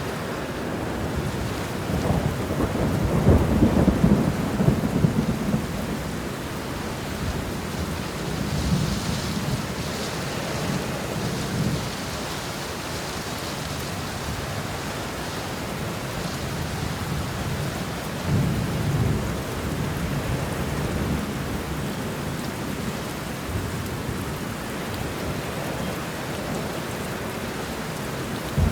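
Steady rain with thunder rumbling over it: the loudest roll comes a couple of seconds in, and lower rumbles return a few more times.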